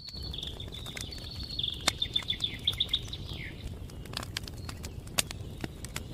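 A songbird singing, a phrase of repeated notes about five a second that ends in a falling note, over the sharp pops and crackle of a campfire and a low rumble.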